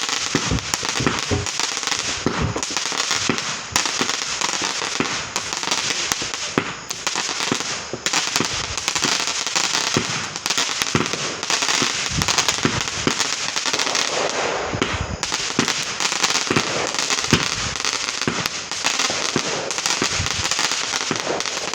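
A multi-shot consumer fireworks cake of about 100 shots firing a steady run of launches and bangs, a few a second, over continuous crackling.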